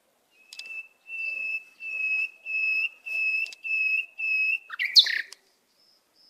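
A bird whistling a series of about six even notes on one steady pitch, each about half a second long, followed about five seconds in by a short, louder, rougher call with a sharp click.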